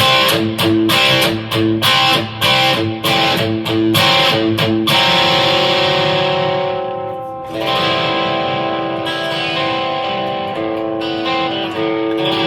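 Amplified electric guitar: quick, rhythmic chord stabs for about five seconds, then a chord left ringing and fading away, followed by slower, sustained chords.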